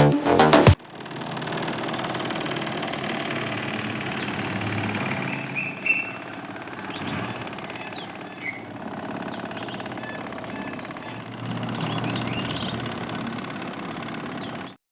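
Small DC motor spinning a cardboard propeller, running with a steady whir, with birds chirping now and then in the background. A short burst of music plays at the very start, and the motor sound cuts off just before the end.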